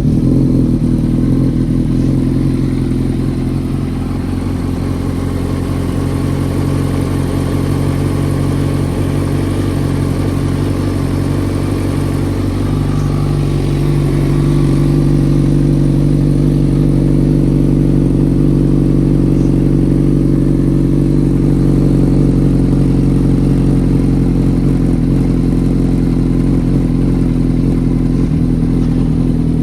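2004 Suzuki GSX-R 1000 inline-four motorcycle engine idling steadily just after a cold start, running without an air filter.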